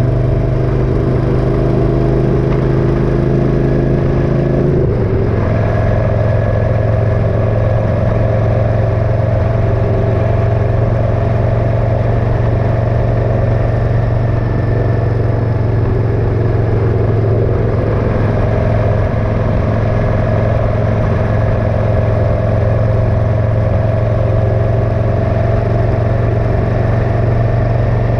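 Motorcycle engine running steadily while riding, its note stepping down slightly about five seconds in.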